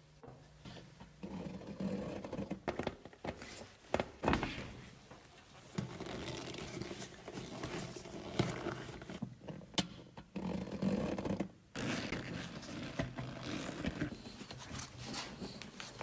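Irregular scraping and rubbing with sharp knocks and clicks of hand work on parts in a small workshop room.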